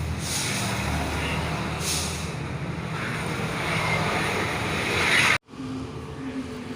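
Sandpaper rubbing over a plastic car headlamp lens in scraping strokes, over a steady low traffic hum. The sound cuts off abruptly about five seconds in, leaving the quieter hum.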